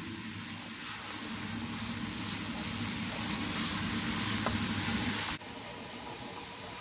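Minced beef sizzling and frying in a nonstick pan while being stirred with a wooden spoon. The sizzle cuts off suddenly about five seconds in, leaving a fainter steady hiss.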